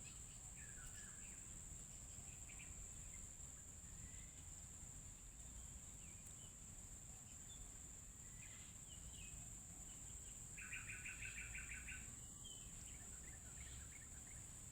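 Faint songbird chirps scattered through, with one rapid trill of evenly spaced notes lasting about a second and a half past the middle, over a steady high-pitched insect buzz.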